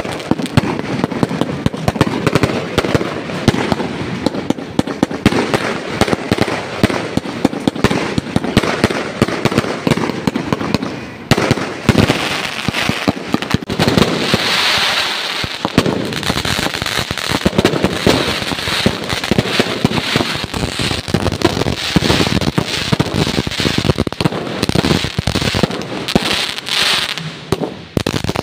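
Fireworks display going off: a dense, continuous barrage of bangs and pops, with a stretch of crackling hiss about halfway through.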